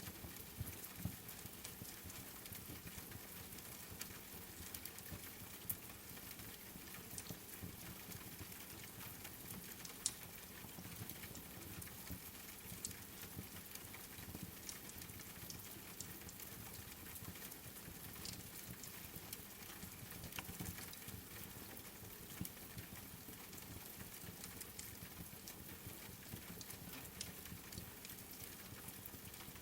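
Rain falling with a wood fire crackling: a faint, steady hiss with scattered sharp pops and clicks, a few louder ones in the first ten seconds.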